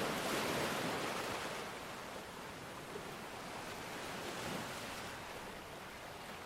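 Steady rushing water noise, loudest in the first second and a half, then easing off.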